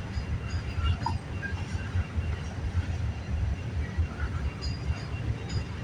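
Freight train rolling past with a steady low rumble of railcars on the track, with faint high squeaks over it.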